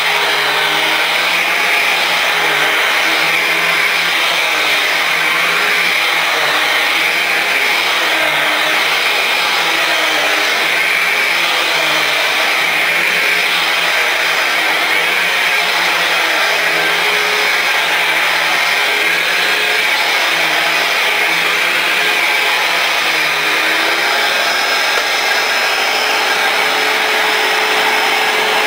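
Dirt Devil Vision Swivel Glide bagless upright vacuum cleaner running steadily, its brush roll driven by a newly fitted belt, the motor note wavering slightly up and down.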